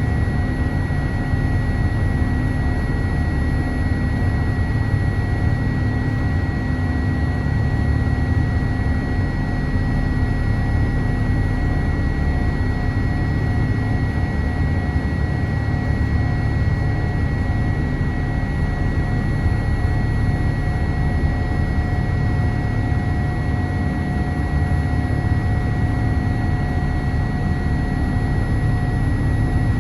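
Cabin noise inside a Boeing 787-8 jetliner: a steady low rumble of engines and airflow with a constant high whine and hum over it.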